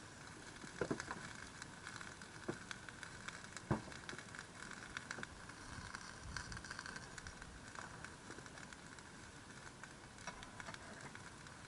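Wood campfire crackling, with a few sharp pops, the loudest about a second in and again near four seconds in, over a faint steady outdoor background.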